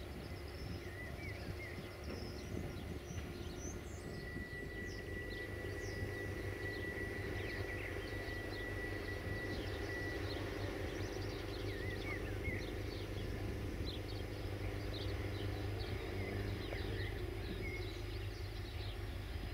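Small birds chirping again and again over a steady low rumble and hum. A thin, steady high tone is held for about six seconds, starting about four seconds in.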